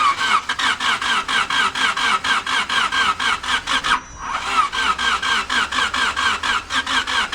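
Starter motor cranking a rebuilt Honda VTEC four-cylinder engine, with a rhythmic squealing chug at about four to five beats a second. The engine does not catch. The cranking breaks off briefly about four seconds in, then starts again. The crew blame the failure to fire on the engine being out of time, with the starter kicking back.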